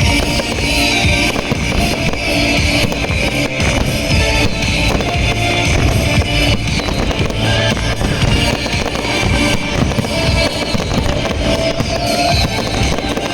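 Fireworks going off in repeated bangs and crackles over loud music with drums and guitar.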